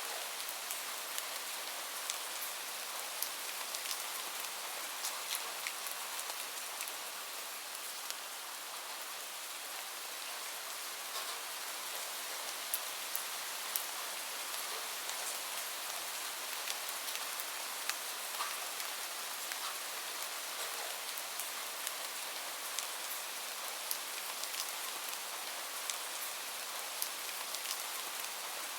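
Gentle rain falling steadily as an even hiss, with scattered small sharp crackles of a wood fire through it.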